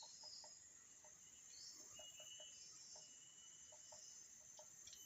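Near silence with faint, thin high bird chirps now and then and a few small ticks.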